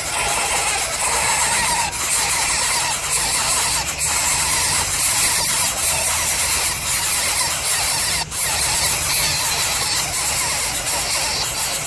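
Coucal chick giving harsh, continuous squealing begging calls.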